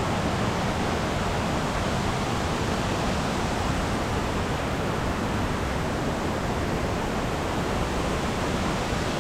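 Steady rush of flowing water, an even noise that does not let up.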